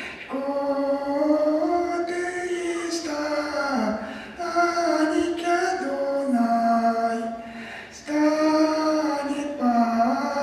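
A voice singing a slow melody in long held notes, the pitch gliding between them, in phrases that pause briefly about every two to four seconds.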